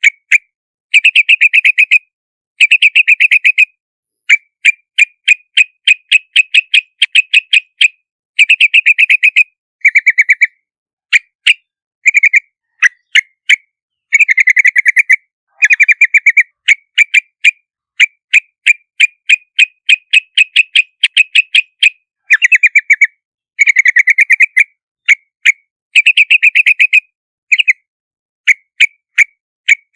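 Yellow-vented bulbul calling: quick runs of short, sharp chip notes and dense chattering bursts, repeated again and again with brief silent gaps between them.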